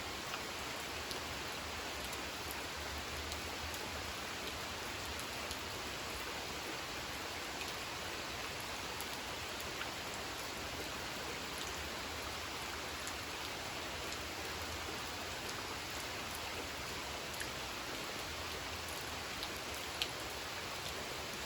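Steady rain falling on a pond and the ground around it, with individual drops ticking here and there.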